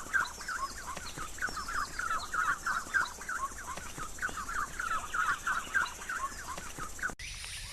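Birds giving a rapid, chattering run of short calls. It cuts off suddenly about seven seconds in, and a steady high hiss follows.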